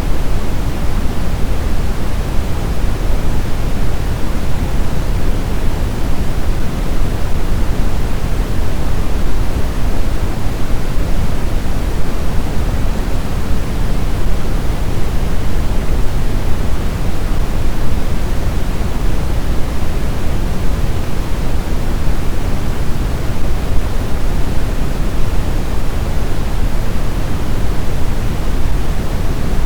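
Blizzard wind as a loud, steady rush of noise, heaviest in the low end. It keeps an even level with no gusts and no howling whistle.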